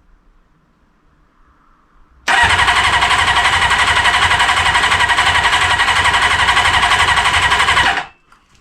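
Kawasaki GPz400R's rebuilt inline-four engine being spun over on its electric starter for about five seconds, an even, rapid pulsing that cuts off suddenly. The engine does not catch: it is cranking without firing.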